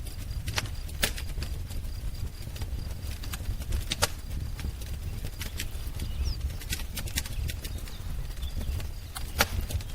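Wood fire crackling: sharp pops and snaps at irregular intervals over a low steady rumble, the loudest pops about a second in, at four seconds and near the end. A bird chirps faintly in the background.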